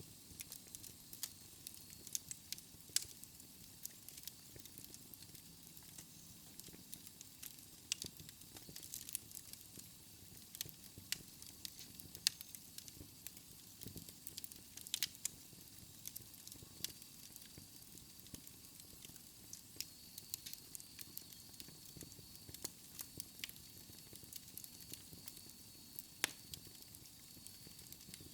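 Wood fire burning in a fireplace: burning logs crackle with irregular sharp pops and snaps over a soft hiss. A faint high whistle comes in about two-thirds of the way through.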